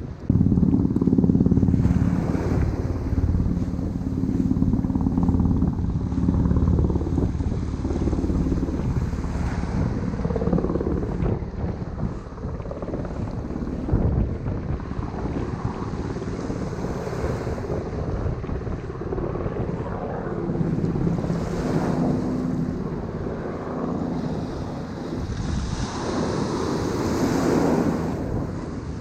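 Strong wind buffeting the microphone over surf breaking on the shore, with the steady engine and rotor drone of a low-flying helicopter.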